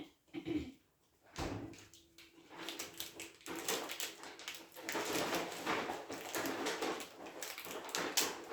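Clear slime being squished and worked by hand, giving a dense run of small wet clicks and pops that grows busier towards the end, after a single knock at the very start.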